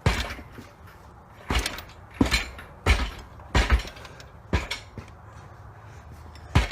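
Repeated kicks against a Mazda 13B rotary engine hanging on a hoist, to shove it back into the transmission housing: about seven heavy thuds, roughly one a second.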